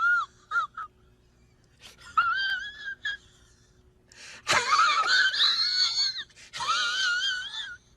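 High-pitched, wavering whining cries, like a whimpering sound effect. A short one and two quick blips come near the start, another about two seconds in, a louder, longer one around the middle, and a last one near the end.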